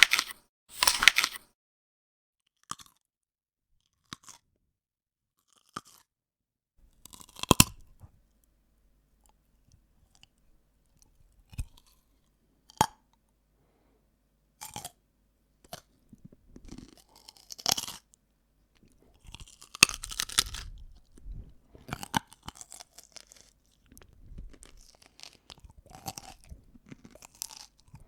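Crisp food being bitten and chewed: separate sharp crunches with long silent gaps at first, then denser, steadier chewing through the second half.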